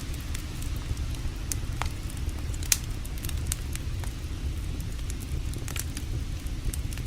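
Wood campfire crackling, with scattered sharp pops (the loudest about two and a half seconds in), over the steady low rush of creek water.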